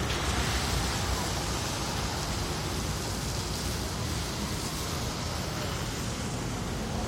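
Steady rushing hiss of water from the swollen, rising floodway river, an even noise without breaks.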